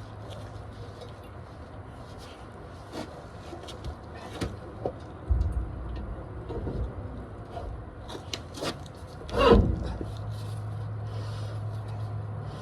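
Scattered clicks and knocks with a louder scrape about nine and a half seconds in, from work on a truck's rear wheel hub and bearings, over a steady low hum.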